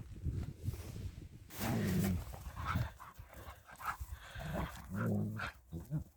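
German Shepherd dog making low, drawn-out vocal sounds twice, about two seconds in and again near five seconds.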